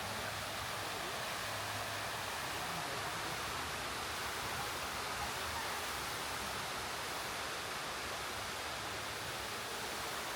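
A steady, even rushing noise that holds level without a break.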